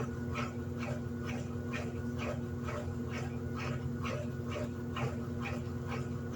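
Electrolux LED14 top-loading washing machine running, its motor humming steadily, with a high squeak repeating evenly about twice a second.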